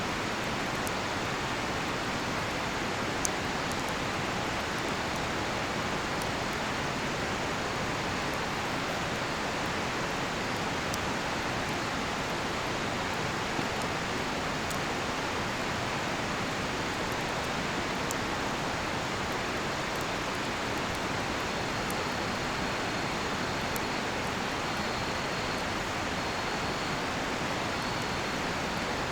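Steady rushing of a nearby river, with occasional small crackles and pops from a cedar-wood campfire. In the second half a cricket chirps in short, repeated high pulses.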